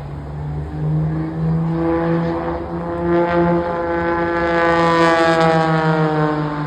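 An aircraft flying past, its engine drone growing louder to a peak about five seconds in while its pitch slides downward as it passes, over a steady low hum.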